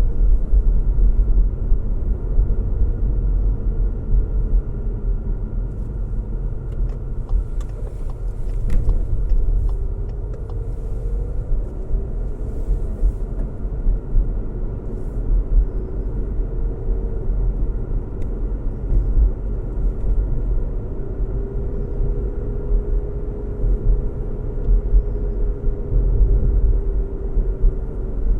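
Steady low road rumble of a moving car, tyres and engine, with a faint hum that slowly rises and falls in pitch. A few faint ticks come about eight seconds in.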